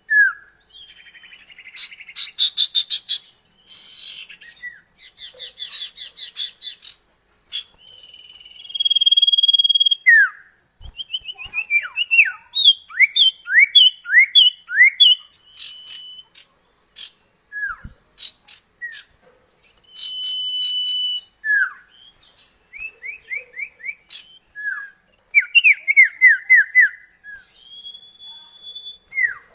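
Common iora (cipoh kacat) singing. It gives sharp down-slurred whistles, long level whistles and quick rattling runs of notes, with a thin steady high tone beneath much of it.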